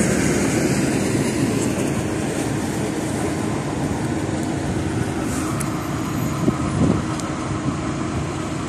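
LiAZ 4292 city bus running, heard from inside the cabin: a steady low engine and road rumble, with a few short knocks and rattles about five to seven seconds in.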